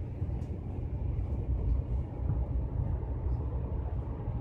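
Steady low rumble of a moving passenger train, heard from inside a glass-domed observation car, with a few faint clicks.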